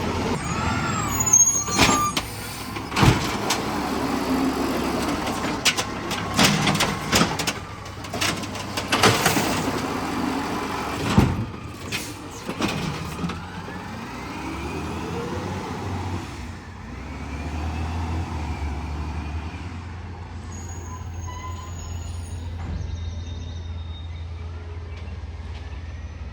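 Garbage truck at work: a run of loud bangs and clanks with gliding hydraulic whines over the engine for about the first half, then the engine running more steadily with rising and falling whines.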